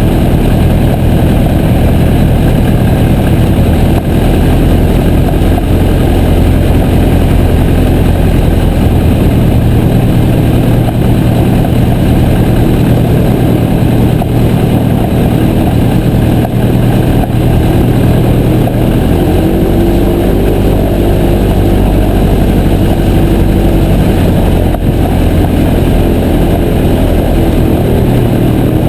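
Piper J3 Cub's piston engine and propeller running steadily, heard close up, with a constant rush of air. Its note shifts a little about twenty seconds in.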